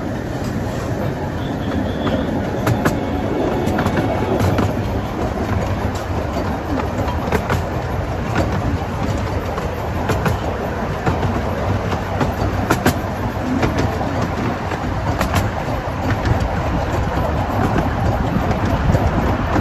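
12-inch gauge miniature railway train running along the track, heard from an open coach: a steady low rumble of the wheels on the rails, with sharp clicks at uneven spacing as the wheels pass over rail joints.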